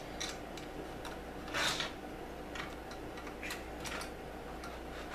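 LEGO pieces handled, a few scattered light clicks and one longer rustle about a second and a half in, over a steady background hum.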